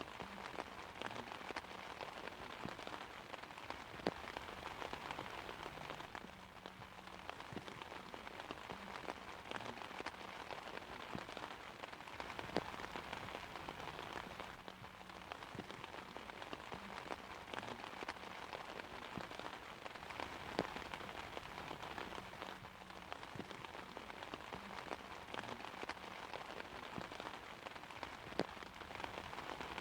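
Steady rain pattering on an umbrella canopy, an even hiss of drops with a few louder single drops striking now and then; no thunder.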